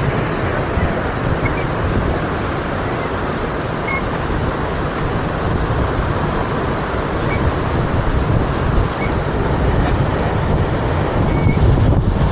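Steady rushing roar of a large waterfall, with wind buffeting the microphone in uneven low rumbles.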